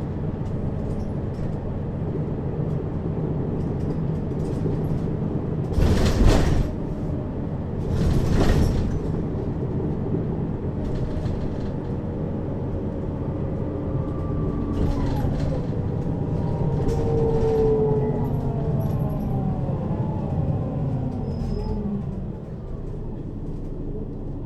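Mercedes-Benz Citaro city bus heard from inside above the rear axle, its engine and ZF Ecomat automatic drivetrain running steadily. Two short loud bursts of noise come about six and eight seconds in, and over the second half a drivetrain whine falls in pitch.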